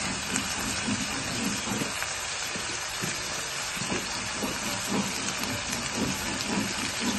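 Cut vegetables frying in hot oil in a non-stick wok: a steady sizzle with small crackles scattered throughout.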